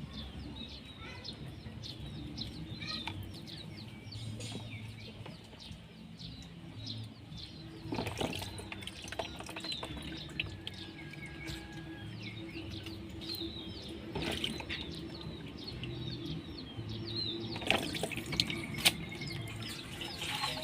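Small birds chirping in quick short notes over a low steady background, with a few sharp knocks breaking in at scattered moments.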